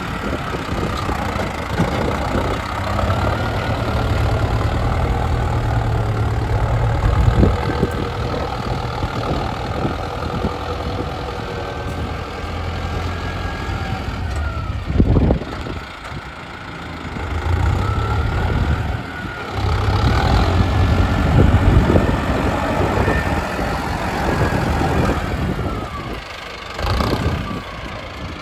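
Mahindra Arjun Novo 605 DI tractor's diesel engine working under changing load, its note rising and falling several times. There is a sharp thump about halfway through.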